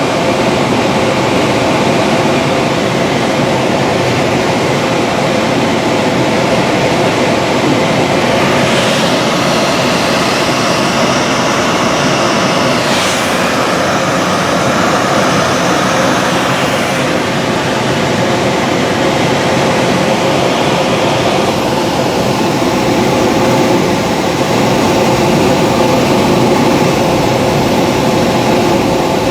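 Steady rushing noise of air and rumble inside a motor glider's cockpit with its engine off, with a faint whistle that rises and falls about a third of the way through.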